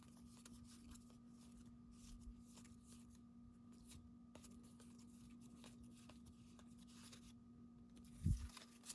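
Faint rustling and small ticks of trading cards being handled, over a steady low hum, with a soft low thump near the end.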